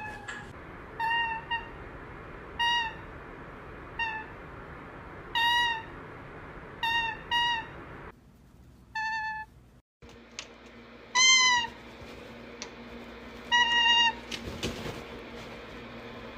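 A series of short, meow-like animal calls repeated about once every second or so, each clear-pitched and arching slightly, with a brief break near the middle.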